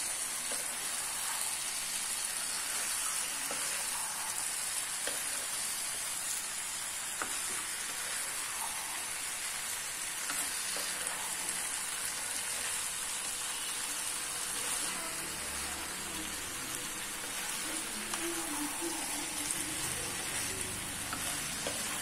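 Potato and cauliflower pieces sizzling gently in tomato-chilli masala in a nonstick kadai while being stirred and folded with a wooden spatula, with a steady frying hiss and a few light spatula taps and scrapes.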